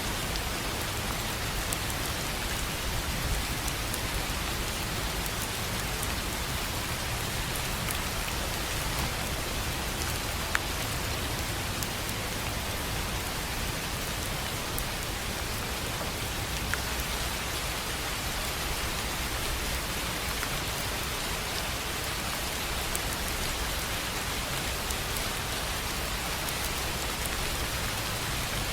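Steady rain falling on a tin roof, with a few louder single drop taps standing out now and then.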